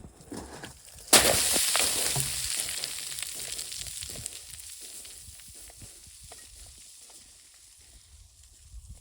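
Snow hissing under a person sliding down a snowy slope. The hiss starts suddenly about a second in and fades away over several seconds, with small crunches of snow.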